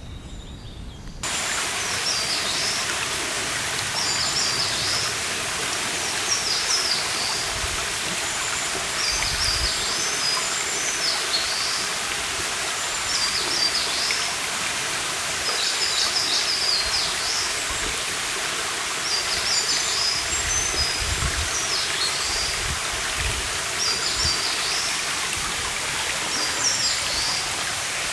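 A stream running with a steady rush of water, coming in abruptly about a second in, while a small songbird repeats a short, high song phrase every two seconds or so.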